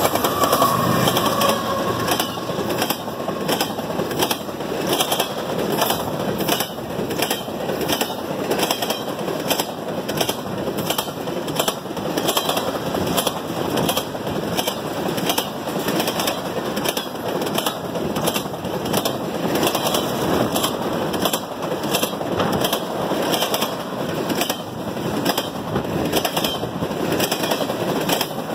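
Empty intermodal well cars of a freight train rolling past: a steady rumble and rattle of steel wheels on rail, with a regular clacking all through.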